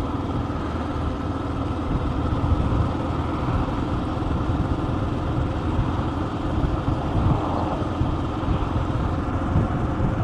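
Motorcycle running steadily at road speed, a continuous low engine and road noise.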